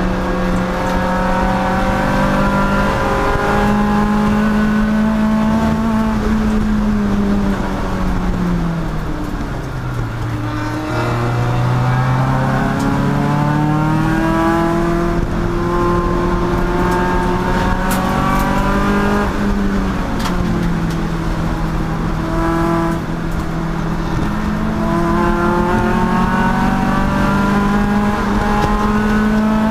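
Endurance race car's engine under load, revs climbing and falling repeatedly as it shifts gears. There is a long drop in revs about six to ten seconds in as it slows, then it pulls hard again.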